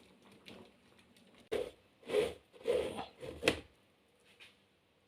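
Four short scraping, squishing sounds of kitchen utensil handling, each under half a second, about one every two-thirds of a second.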